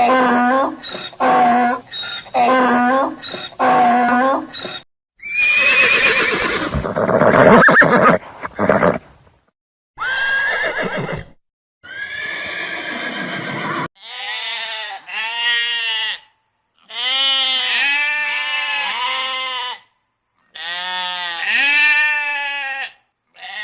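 A run of separate farm animal calls: about five short, evenly repeated calls at first, then a long rough, noisy call, and in the second half several wavering bleats.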